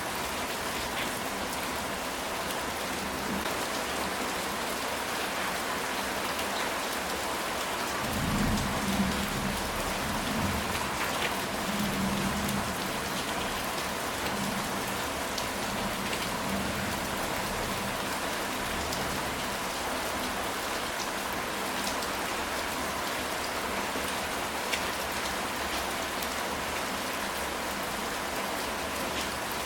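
Steady rain falling on a ceramic tile roof, an even hiss of drops with scattered single drop ticks. About eight seconds in, a low rumble of thunder rolls for about five seconds.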